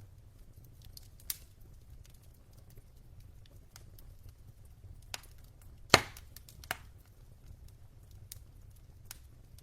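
Wood fire burning in a fireplace: a low steady rumble of the flames with scattered crackles from the logs, and one loud pop about six seconds in.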